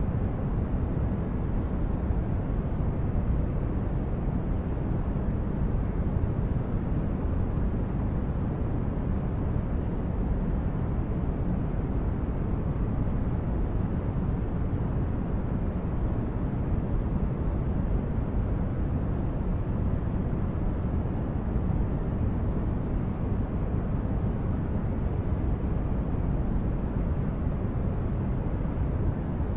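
Sci-fi spaceship ambience: a steady, unchanging low rumble of brown noise, strongest in the bass and thinning out toward the highs, with no distinct events.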